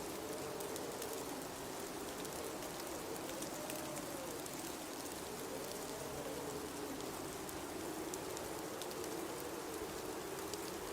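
Blizzard wind blowing steadily, its tone wavering slowly up and down over a constant hiss, with faint scattered ticks.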